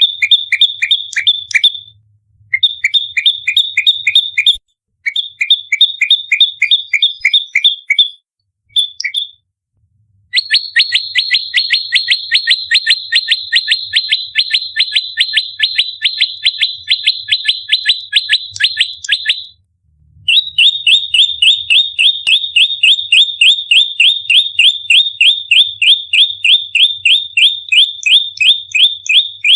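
Prenjak lumut singing its fighting song: strings of sharp, high chirps repeated fast, about four to five a second. There are short bursts with brief pauses at first, then two long unbroken rapid-fire runs.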